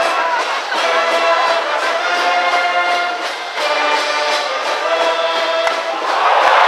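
High school brass band playing a cheering song in the stands, in phrases of held brass chords. About six seconds in, the crowd noise swells loudly over the band.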